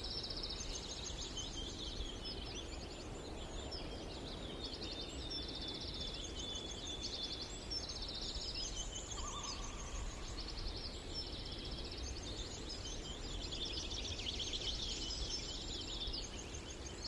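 Several birds singing in rapid, high-pitched trills that overlap one another throughout, over a low steady rumble.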